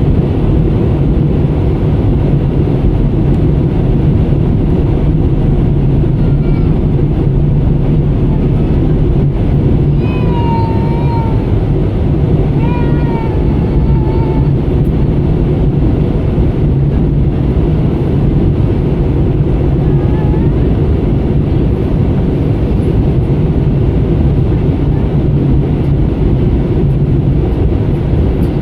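Airliner cabin noise: the engines and rushing airflow heard from inside the passenger cabin, a loud, steady low drone. A faint, high, wavering voice rises above it briefly about ten to fourteen seconds in.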